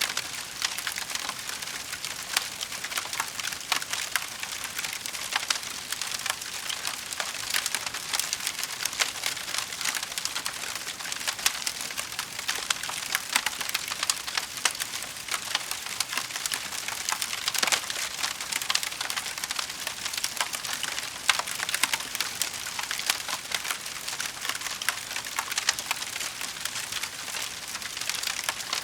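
Wood fire crackling in a fireplace: a steady, dense run of small sharp pops and snaps over a soft hiss.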